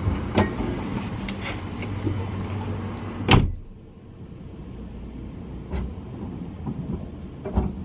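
Car warning chime beeping three times, with a few clicks, then a car door shutting with a loud thump about three and a half seconds in; afterwards only a quieter low background with a couple of light knocks.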